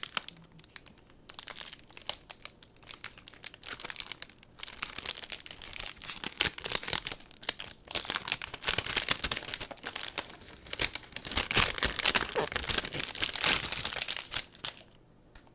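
Packaging being unwrapped by hand: crinkling and tearing in bouts with short pauses, busiest in the second half and stopping abruptly near the end.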